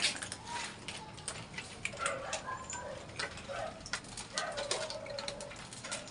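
A kitten's short, soft calls, several between about two and five seconds in, among many small clicks and taps.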